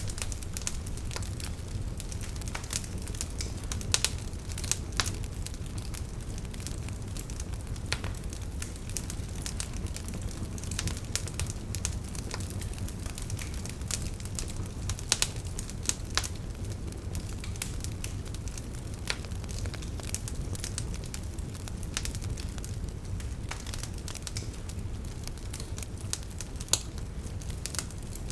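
Wood fire crackling: irregular sharp pops and snaps over a steady low rumble of flame.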